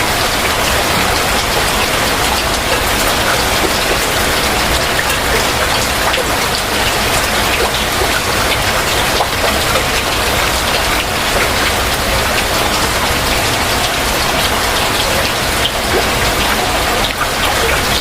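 Heavy rain falling steadily, with a dense patter of individual drops hitting surfaces.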